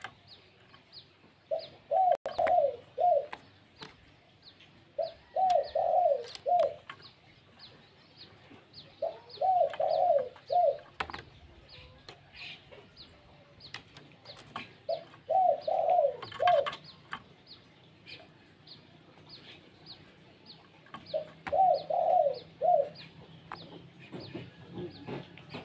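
A dove cooing in short phrases of four or five notes, five times about every four seconds, over a steady run of short, high chirps from another bird.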